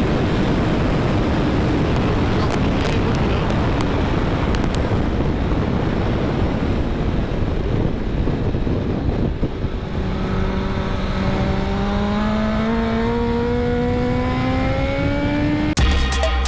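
Sportbike ridden at speed, heard through heavy wind rush on a helmet-mounted camera; after about ten seconds the engine note rises steadily for several seconds as the bike accelerates. Music cuts in suddenly near the end.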